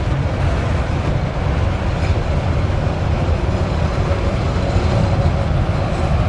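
Freight train rolling past, a steady heavy rumble.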